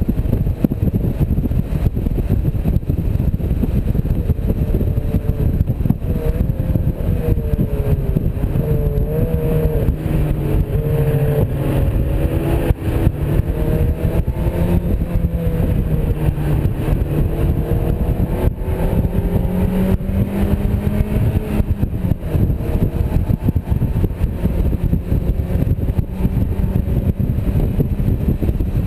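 Mazda MX-5's four-cylinder engine driven on track with the top down, its pitch rising and falling as the car speeds up and slows, under a heavy low wind rumble on the microphone.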